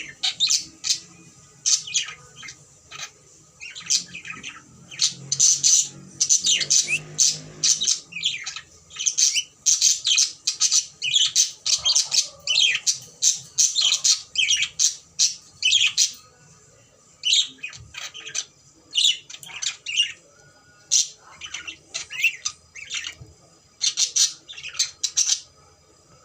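Pet cockatiel squawking: many short, sharp, high-pitched calls in rapid runs, with a few brief pauses.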